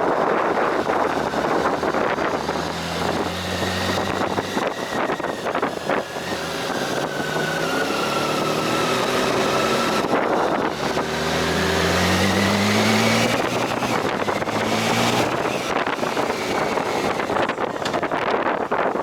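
Vehicle engine under way on an uphill road, its note climbing for several seconds midway and then easing back. Wind rushes over the microphone throughout.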